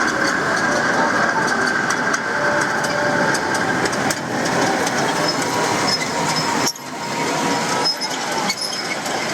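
Manyo Line tram running on its rails: a steady rumble with faint steady tones and scattered clicks. The level drops briefly about two-thirds of the way through.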